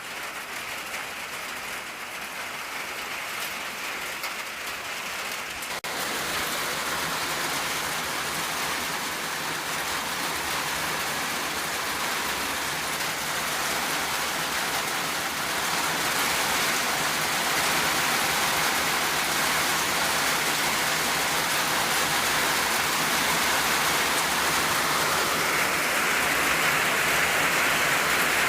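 Rain drumming steadily on an old tin roof. About six seconds in it turns abruptly louder and heavier, then slowly builds further toward the end.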